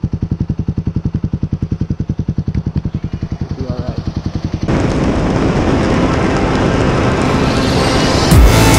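Kawasaki KLX250SF's single-cylinder four-stroke engine idling, an even pulsing of about twelve beats a second. About halfway through it cuts abruptly to the dense rush of wind and road noise of riding on a wet highway. Electronic music starts near the end.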